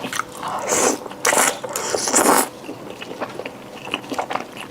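Close-miked eating: bites and chewing with wet mouth sounds, a few louder noisy bursts in the first half giving way to softer clicks of chewing.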